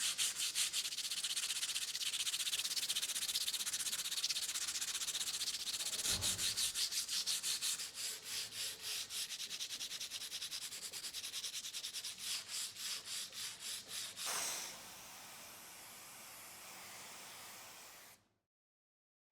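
An abrasive being rubbed by hand in quick back-and-forth strokes on a part of a rusty Olympia Splendid typewriter, scraping rust and old finish off the metal. The strokes turn into a softer, steady hiss about fourteen seconds in, then stop abruptly.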